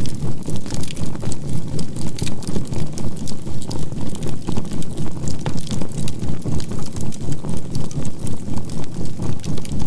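Crackling charcoal campfire, with sharp pops and snaps scattered throughout. Under it runs a low synthesized healing tone, a 528 Hz binaural-beat track, that pulses evenly about three times a second.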